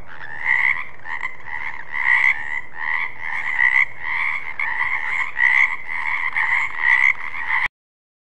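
Frog croaking in a steady run of repeated calls, about two a second. The recording stops suddenly near the end.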